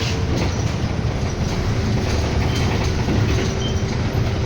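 City bus under way, heard from inside: a steady low engine and road rumble with light rattles and clicks from the body, and a faint steady whine that sets in just under two seconds in.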